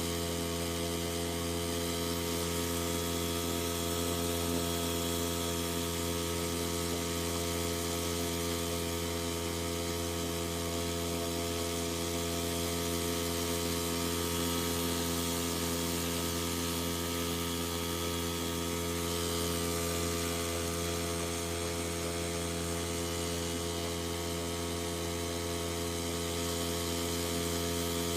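EARROW 5 petrol outboard motor running at a steady cruising speed, pushing a loaded boat under way; an even, unchanging drone.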